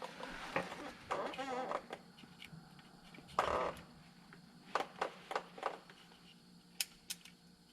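Handling noise under the truck: a test light's alligator-clip lead being worked onto a wire, giving a handful of short sharp clicks in the second half, with a brief muffled vocal murmur about a second in.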